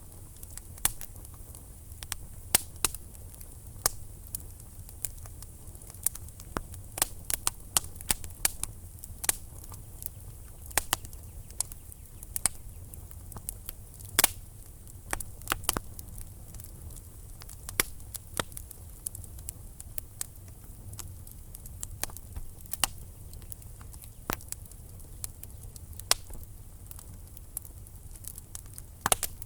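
Wood fire crackling in a fireplace: irregular sharp pops and snaps of burning logs, some in quick clusters, over a steady low rumble of the flames.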